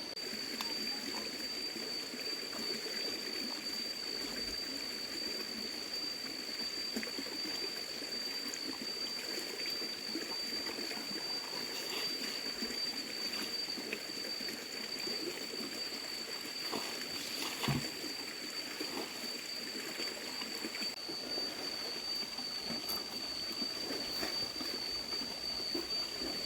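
Stream water trickling and flowing steadily, with a steady high-pitched whine throughout and a single sharp knock about two-thirds of the way through.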